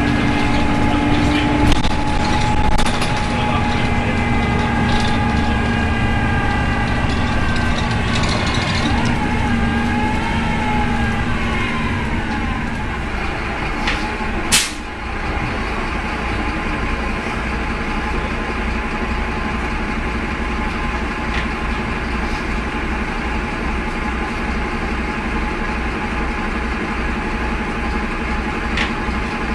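Optare Tempo single-decker bus heard from inside the saloon, its engine running with a weird howling whine made of several steady pitches that bend up and down partway through. A short sharp noise comes about halfway, then the bus runs on more steadily and a little quieter.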